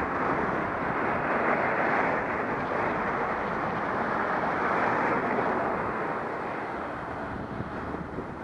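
Wind rushing steadily over the microphone of a Contour Roam action camera on a bicycle moving at speed. The rush eases slightly near the end.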